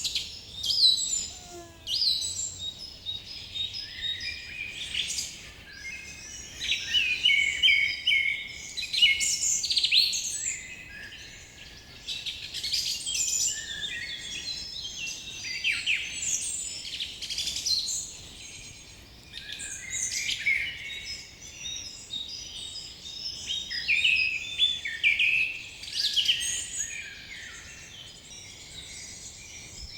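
Chorus of many forest birds chirping and singing, their calls overlapping densely, with short quieter spells between the busiest stretches.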